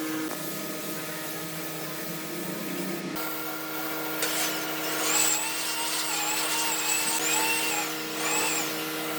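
A small high-speed power tool whining as it works wood, starting about four seconds in, its pitch sagging and recovering four or five times as it takes load, over a steady workshop hum.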